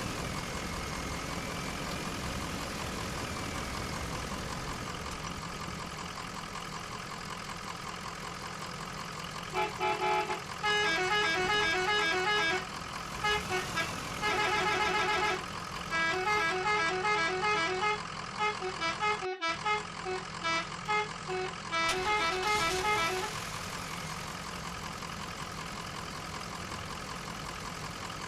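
Miniature RC truck sounding a multi-tone horn in quick rhythmic runs of short toots, over a steady engine-like hum. The tooting starts about a third of the way in and goes on for roughly thirteen seconds, with brief pauses.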